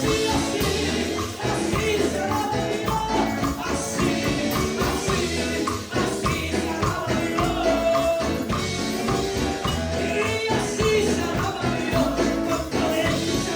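Upbeat Spanish-language Pentecostal chorus (coro) music: singing over a band with a steady beat and a prominent tambourine.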